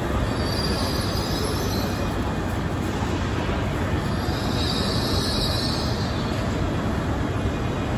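TransPennine Express Nova 1 (Hitachi Class 802) train rolling along the platform: a steady rumble of wheels on rails, with high squealing that swells about a second in and again around five seconds in.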